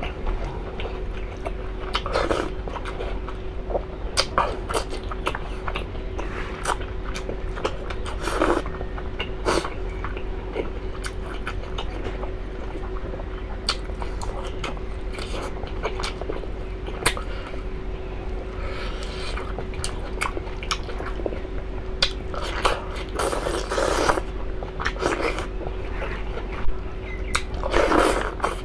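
Close-up chewing and mouth sounds of a person eating beef innards: many short sharp clicks and smacks, with a few louder, longer bursts, over a steady hum.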